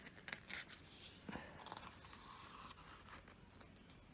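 Near silence with a few faint paper rustles and light scratchy handling noises, mostly in the first second and a half, from the pages of a photobook being handled.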